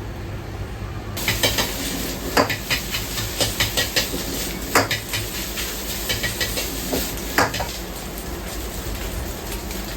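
Food hitting a hot pan about a second in and sizzling, with metal utensils clattering and scraping against the pan as it is stir-fried.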